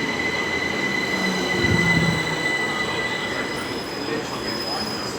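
Passenger train moving through the station with a steady high-pitched squeal from its wheels that fades away about three seconds in, over the running noise of the train.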